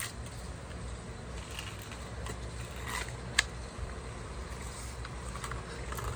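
Small clicks and taps of hands working on plastic and metal parts inside a car door, with one sharp click about three and a half seconds in, over a low steady rumble.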